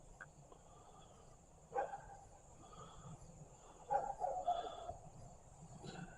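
Faint outdoor ambience: a steady high insect drone, with a few faint distant animal calls about two, four and six seconds in.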